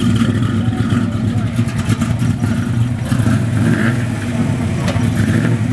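A car engine running with a loud, steady low rumble.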